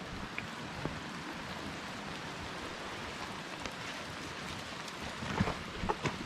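Steady hiss of rainfall, with a few light ticks and taps near the end.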